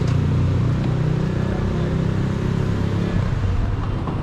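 Car engine running at a steady low hum, which fades and roughens about three seconds in.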